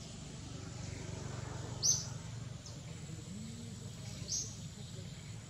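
A bird chirping, a short high call about every two seconds, over a steady low background rumble.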